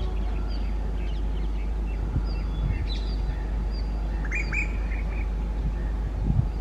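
Birds chirping in short, repeated high calls, with a louder burst of calls about four and a half seconds in, over a steady low rumble.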